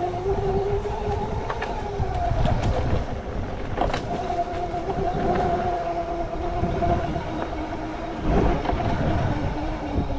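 Dirt bike engine running at a fairly steady speed, with a low rumble under it.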